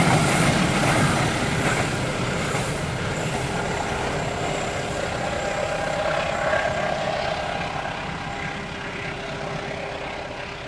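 A passing train's running noise fading steadily as it moves away, with a faint steady tone in the middle.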